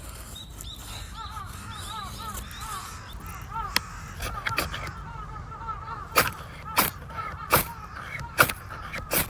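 A bird calling in a quick run of short chirps, then a series of sharp knocks that grow louder, about one every three-quarters of a second.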